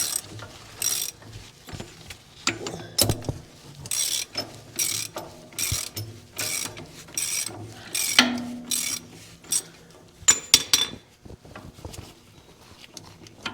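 Socket ratchet wrench clicking in short, irregular strokes, with a few sharp metal clinks later on.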